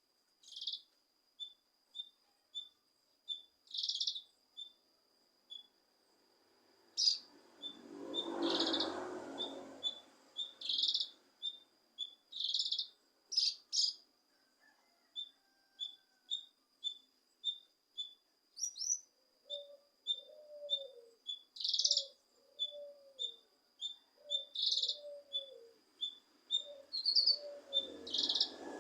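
Cucak kinoi chirping and singing: a string of short high chirps at about two a second, broken every few seconds by louder bursts of song over a steady thin high tone. From about twenty seconds in, a lower arched call repeats about once a second.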